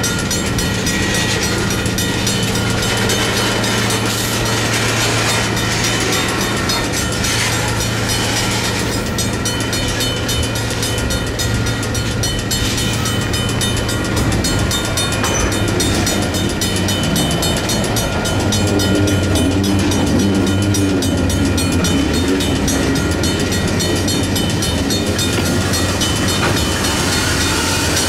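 Diesel locomotive running as a train moves through a railroad crossing: a steady engine drone whose note shifts a little past halfway, over a continuous rumble of the moving train.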